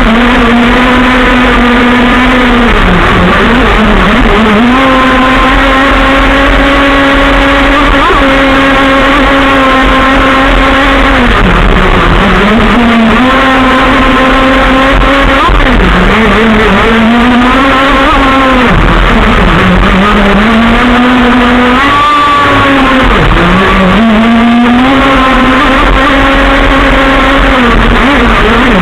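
Modified Zenoah two-stroke petrol engine on a radio-controlled model, running loud at high revs. Its pitch dips briefly and climbs back every few seconds as the throttle is eased and opened again.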